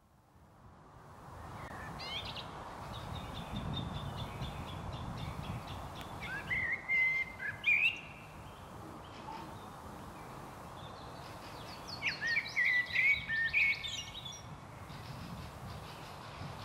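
A songbird singing short trilled phrases over a steady outdoor hiss, fading in from silence over the first second or two. There are three phrases: a faint one about two seconds in, then louder ones about seven seconds in and again around twelve to fourteen seconds in.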